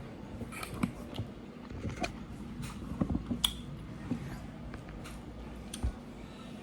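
A person eating close to the microphone: scattered short wet clicks and smacks of chewing, over a faint steady hum.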